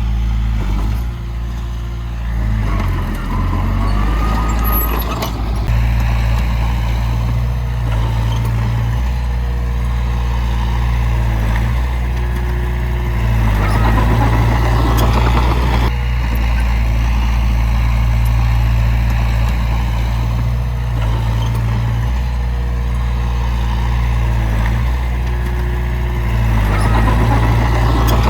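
Heavy diesel engine of earthmoving machinery, a dump truck or bulldozer, running steadily with a deep, even drone.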